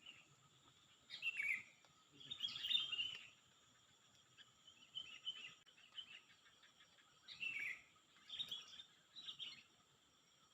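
Bird calls: a falling call followed by a burst of quick chirps, twice, with a few fainter chirps between them.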